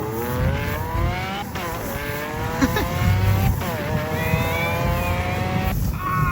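An engine accelerating hard, its pitch climbing through three gears with two sudden drops at the shifts between them, then cutting off abruptly near the end.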